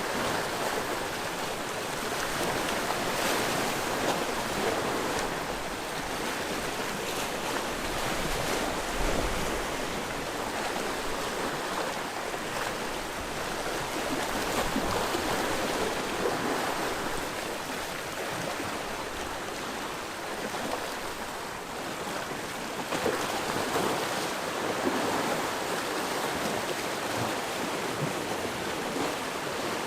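Sea waves on the coast, a continuous rush of surf that swells and eases every few seconds.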